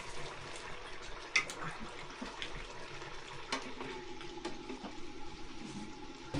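Water running steadily, with a few light clicks and knocks.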